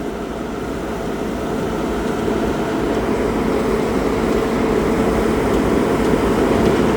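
Bobcat skid-steer loader's engine running steadily, growing gradually louder.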